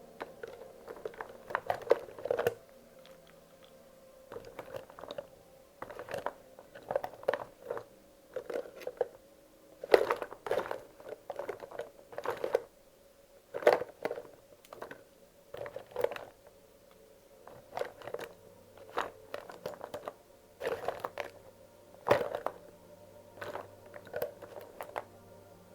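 Wax crayons clicking and clattering against one another as they are picked up, handled and sorted, in irregular clusters of small knocks every second or two.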